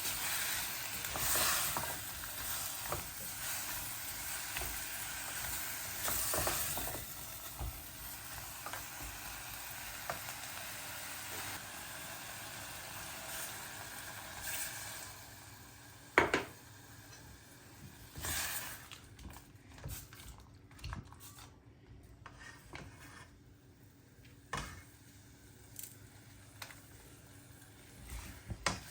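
Food sizzling as it fries in a pan, stirred with a utensil that knocks against the pan now and then. About halfway through there is one sharp knock. After that the sizzling is much quieter, with only scattered clicks of the utensil.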